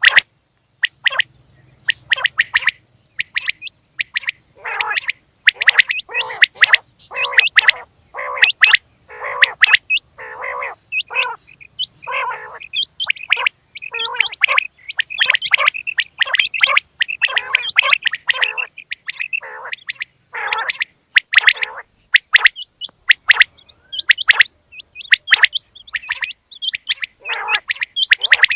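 Female quail calling over and over: a rapid string of short calls, some sharp high chirps and others lower and rasping, with brief gaps between bursts.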